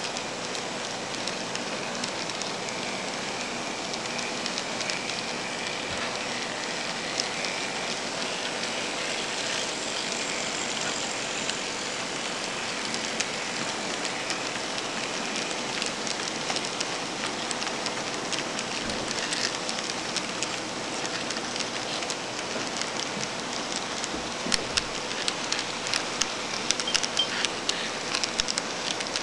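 N scale model train rolling along its track: a steady rolling hiss with a faint steady hum, and scattered clicking of the cars' wheels that grows busier near the end.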